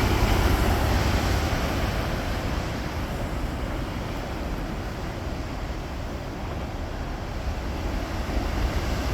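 Wind buffeting the microphone as a steady low rumbling hiss, with the wash of sea surf behind it. It eases a little a few seconds in.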